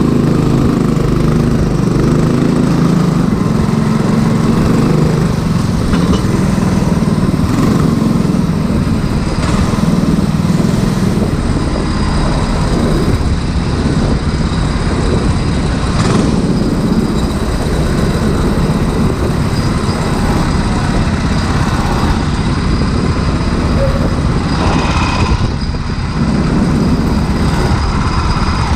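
Go-kart engines running steadily, a small-engine drone with no let-up.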